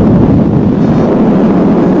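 Strong wind buffeting the microphone: a loud, steady rumbling rush with no distinct events.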